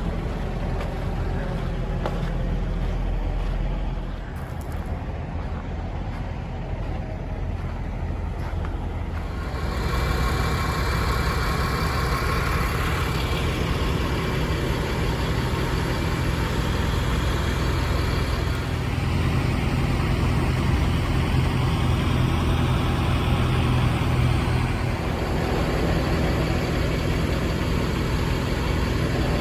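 A truck's engine running steadily at idle, a low, even hum. About ten seconds in, a louder rushing noise joins it and stays.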